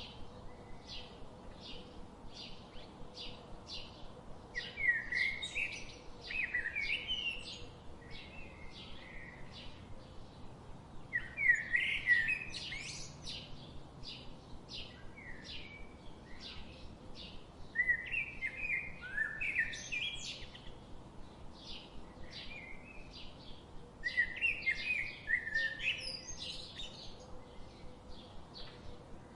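Birds singing: a steady run of short, high chirps about two or three a second, broken about every six seconds by a louder burst of warbling song.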